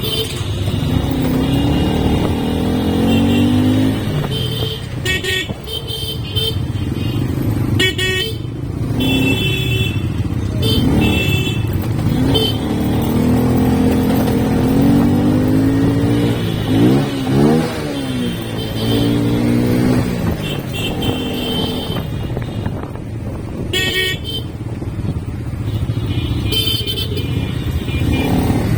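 Motorcycle engine running on the move, its pitch rising and falling with throttle and gear changes. Vehicle horns honk on and off around it in traffic.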